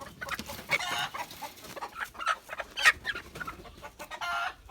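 Farm poultry calling in a rapid, agitated run of short, sharp squawks, with one longer call near the end, as the birds are being caught.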